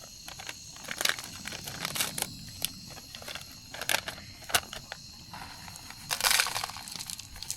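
Crinkling and rustling of a plastic food package being handled, in short bursts with a few sharp clicks; the loudest, longest rustle comes about six seconds in.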